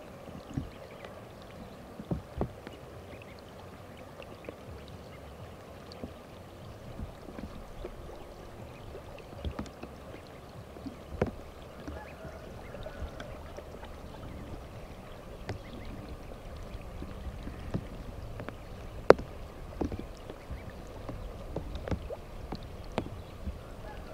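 Water splashing and dripping in irregular small splashes over a steady wet background, with one sharper splash about 19 seconds in.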